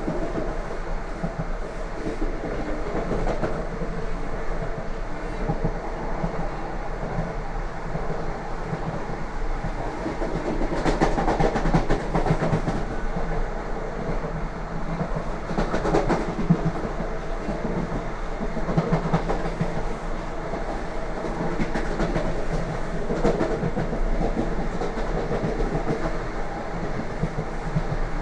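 Wheels of a Lastochka (Siemens Desiro RUS) electric train clattering over the rails at speed, heard from on board. There is a steady rumble with sharp knocks, a few of them louder in the middle.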